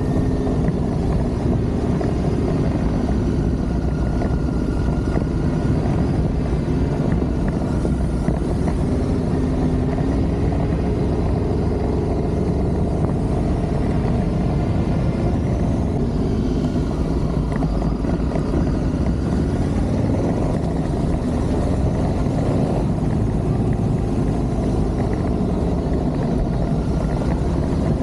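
Adventure motorcycle engine running while being ridden, its pitch rising and falling gently with the throttle over a steady rumble of road and wind noise.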